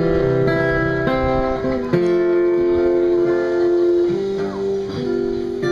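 A country band plays an instrumental passage between sung lines: acoustic guitar strumming under long held melody notes that change about once a second.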